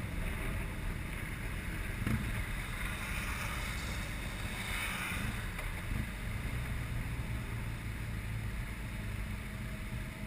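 Motorcycle engine running steadily, with wind buffeting the microphone.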